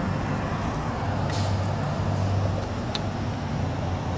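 Car engine idling, a steady low hum, with two faint short clicks, about a second apart from the middle onward.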